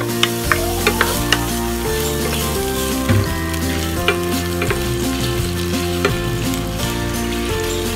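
Julienned ginger sizzling in hot canola oil in a nonstick pan, stirred with a wooden spatula that clicks against the pan now and then.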